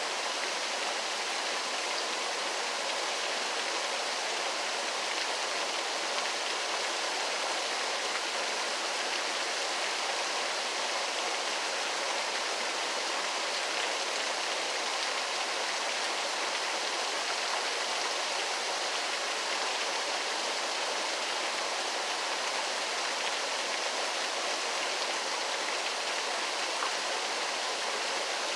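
Waterfall: falling water running as a steady, even rush with no change.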